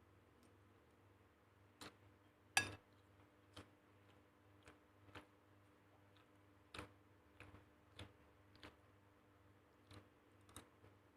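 Faint, irregular taps and clicks of kitchen work, with one sharper knock about two and a half seconds in, over a low steady hum.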